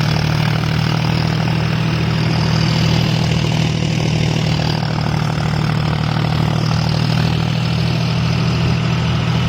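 John Deere 5050D tractor's diesel engine running steadily at about 1500 rpm, driving a thresher whose machinery runs alongside it in a constant loud drone.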